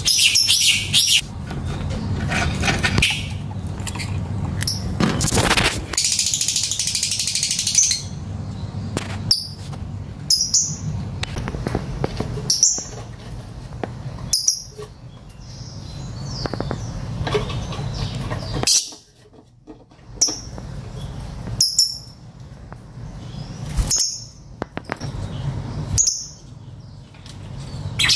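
Lovebird chirping: short, high calls repeated every second or two, over a steady low rumble.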